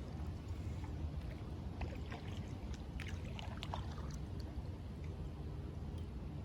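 Kayak paddling on calm river water: small splashes and drips from the paddle blades, over a steady low rumble.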